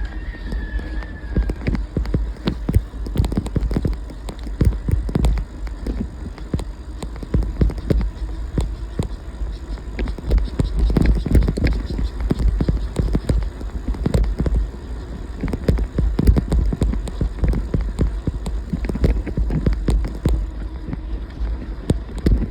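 Steady wind rumble on the microphone during a ride, with many irregular knocks and rattles, as over a bumpy road. A short falling squeak sounds near the start.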